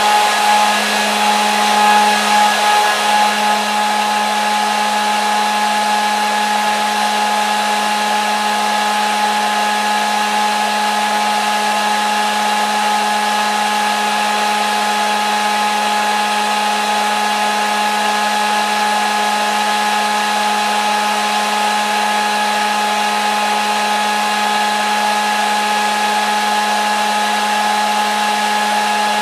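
Hair dryer running continuously: a steady rushing hiss with a low hum and a high motor whine. Its level wavers slightly for the first few seconds, then holds even.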